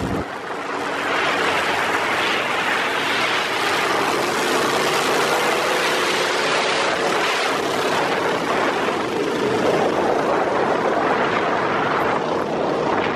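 Steady rushing noise of demolition derby cars running down a drag strip, heard from a moving golf cart pacing them, with wind and engine drone mixed together and a faint steady engine tone in the middle.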